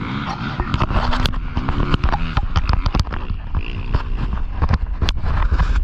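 Dirt bike engine revving up and down as it is ridden, over a heavy low rumble, with many sharp clicks and knocks.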